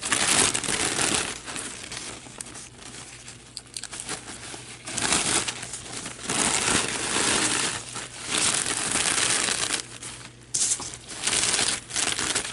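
Thin paper napkin crinkling in irregular bursts as its plies are peeled apart and handled.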